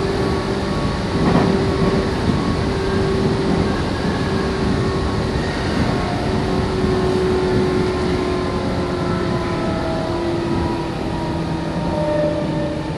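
Interior running noise of a Meitetsu 6800 series electric train under way: a steady rumble of wheels on rail, with a faint hum from the motors and gears whose pitch drifts slowly.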